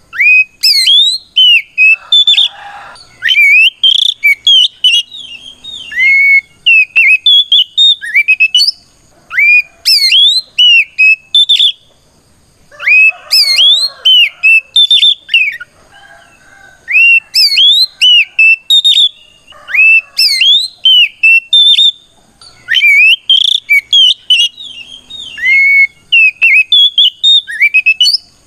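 Oriental magpie-robin (kacer) singing a loud, clear whistled song of quick rising and falling notes in repeated bursts with short pauses. It is the bird's challenge song, calling out a rival.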